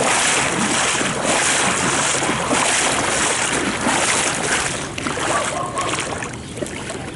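Storm runoff rushing along the street and pouring into a storm sewer drain, a steady loud rush that eases off about two-thirds of the way through.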